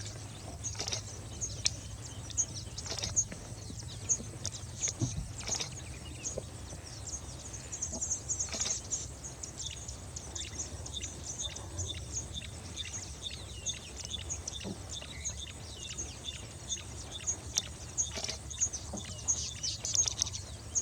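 Many small birds chirping and calling in quick, high-pitched notes, over a faint steady low hum.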